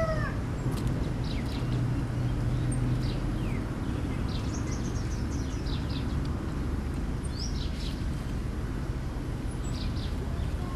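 Small birds chirping with short, high, downward-sliding calls scattered throughout, over a steady low outdoor rumble. A rooster's crow trails off right at the start.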